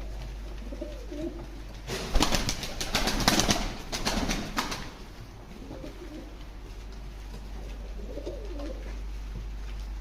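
Tumbler pigeons cooing in low, wavering calls, with a loud burst of clattering and rustling about two seconds in that lasts a few seconds. A steady low hum runs underneath.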